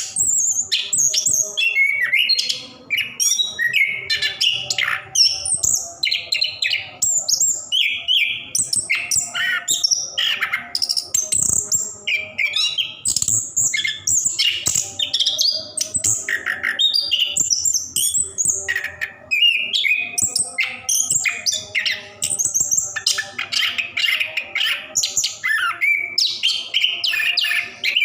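Chestnut-capped thrush (anis kembang) singing continuously: a fast, varied run of high chirps, trills and whistled phrases with hardly a pause.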